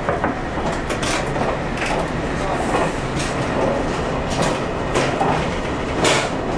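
Diesel limited express train running at speed, heard from inside the front car: a steady rumble of engine and wheels on rail, with sharp clicks about once a second as the wheels pass rail joints, the loudest near the end.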